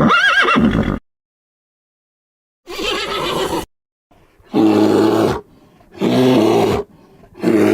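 An animal calling in separate calls: a loud wavering call at the start, a rough, noisy call about three seconds in, then three shorter pitched calls about a second apart near the end.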